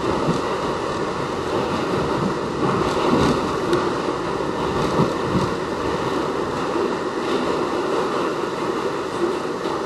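Westinghouse R68 subway car running between stations, heard from inside the car: a steady rush of wheel and track noise, with a few short knocks in the first half.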